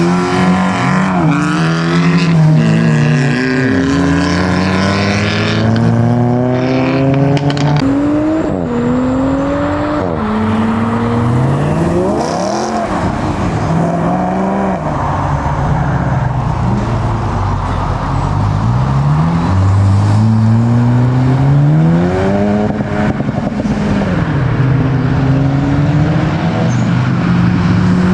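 Modified performance cars accelerating hard away one after another. Their engines rev up in rising sweeps, dropping suddenly at gear changes, again and again.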